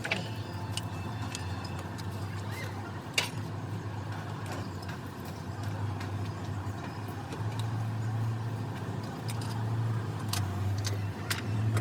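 Steady low machine hum with scattered sharp metallic clicks and taps, like tools handled on an engine being worked on.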